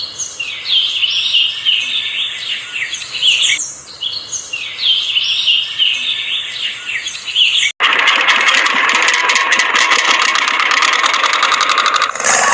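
Birds chirping in quick, repeated downward-sweeping calls. About eight seconds in this cuts off abruptly and a small motor starts running with a fast, rattling buzz.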